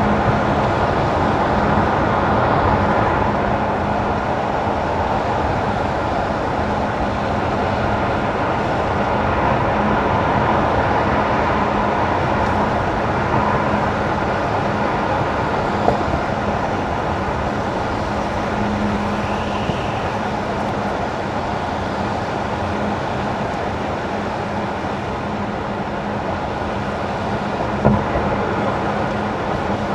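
A car driving on wet winter asphalt: steady tyre and road noise with a constant low hum, and two small knocks, about halfway through and near the end.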